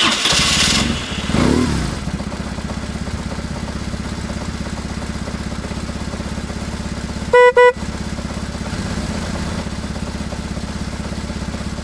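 A vehicle engine running steadily, rising in pitch briefly about a second and a half in. A horn gives two short beeps about seven and a half seconds in.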